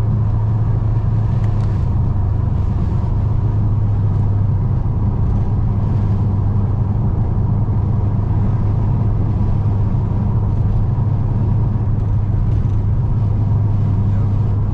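A muffler-deleted 2006 Dodge Charger R/T's 5.7 Hemi V8 exhaust droning steadily at a constant cruise, heard from inside the car.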